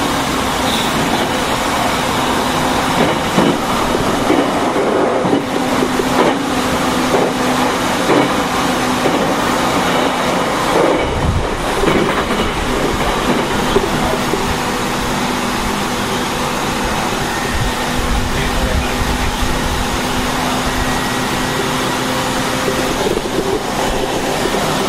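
Interior running noise of an Aoimori Railway 703 series AC electric multiple unit under way: a steady hum and wheel-on-rail noise, with scattered clicks over rail joints in the first several seconds and a brief low rumble about eleven seconds in.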